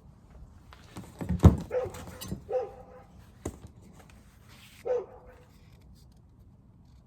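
A dog barking several short times, with the loudest barks in the first half. A sharp knock comes among the first barks.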